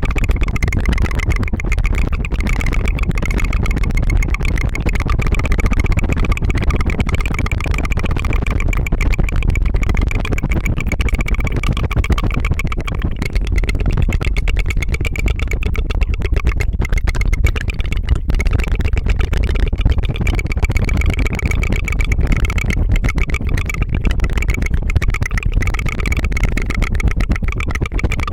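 Close-miked ASMR tongue fluttering: a rolled tongue trill that makes a fast, continuous rattling buzz. It runs on steadily with only brief breaks.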